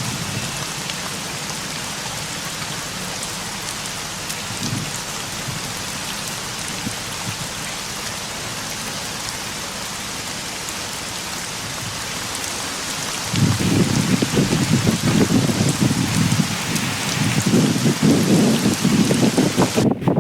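Steady heavy monsoon rain hissing down. About two-thirds of the way through, a louder low rumble comes in suddenly and keeps rising and falling over the rain.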